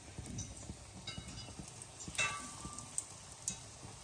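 Breaded chicken nuggets frying in shallow oil in a pan: a faint, irregular sizzle and crackle with scattered small pops.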